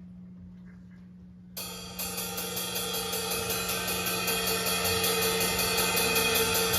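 Live rock band starting a song: a steady amplifier hum, then about a second and a half in a sustained distorted chord comes in with a fast, even cymbal beat of about six hits a second, growing louder.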